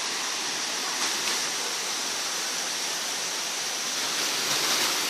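Waterfall: a steady rush of falling water, swelling slightly near the end.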